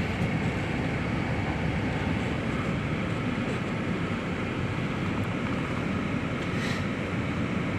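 Steady, even rush and hum of a vehicle running, like an engine idling with a fan blowing.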